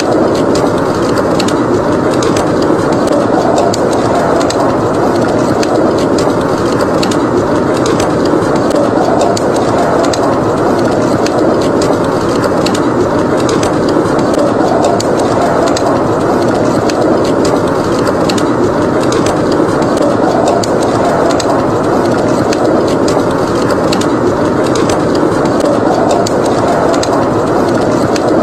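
Wood fire crackling, with many small irregular pops and snaps, over a steady howling wind that slowly swells and eases.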